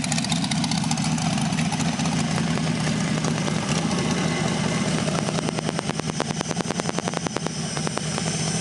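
1967 Corvette L79 327 small-block Chevy V8 running at idle through open headers, with no mufflers. The exhaust pulses turn sharp and distinct for a few seconds past the middle.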